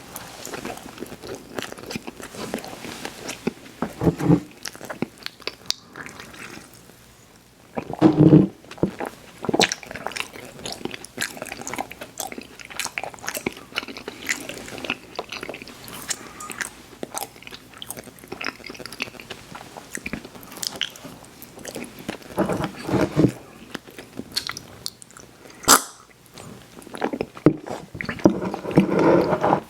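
Close-miked eating sounds: biting into and chewing sweets, with many small mouth clicks and a few louder bites and chews.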